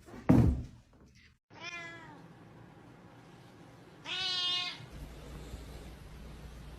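A short thump near the start, then a cat meowing twice: a brief falling meow, and a louder, longer one about four seconds in.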